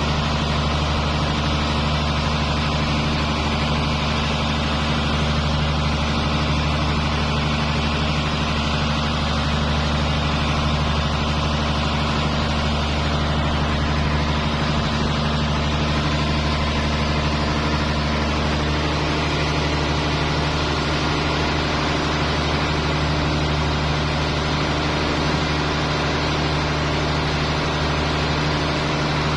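A squid-fishing boat's engine running steadily at a constant speed. One of its tones fades out about two-thirds of the way through.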